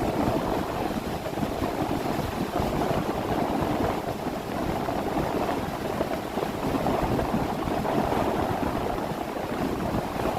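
Motorboat underway: a steady, churning rush of water along the hull, with the boat's motor and wind on the microphone blended in.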